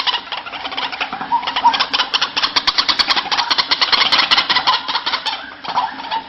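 White-breasted waterhen calling: a fast, even run of rapidly repeated notes, easing off near the end.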